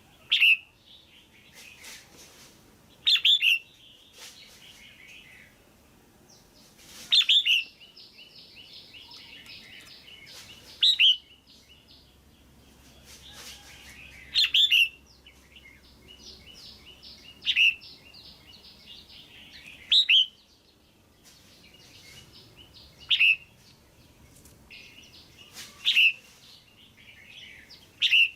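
Female red-whiskered bulbul calling: about ten loud, short calls spaced roughly three seconds apart, with quieter rapid chattering between them. These are the female's calls that keepers play to stimulate a male bulbul or to pair birds.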